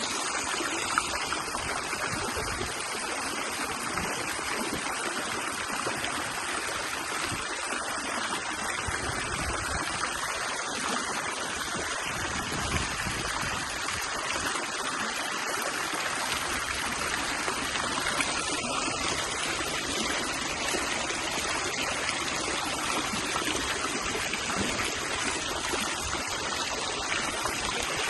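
Water fountain running, its water falling and splashing in a steady, unbroken rush.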